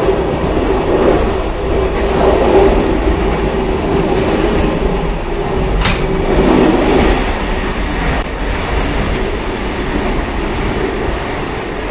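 Railcar running along the track with a continuous rumble of wheels on rail and a steady droning tone that fades out after the middle. A single sharp click comes about six seconds in.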